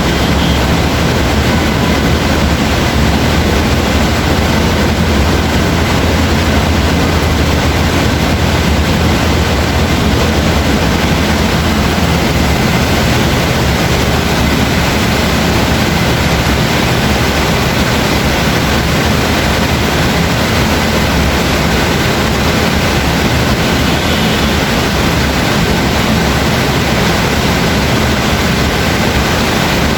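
Steady heavy rain, a dense unbroken hiss with a low rumble underneath that is a little stronger in the first half.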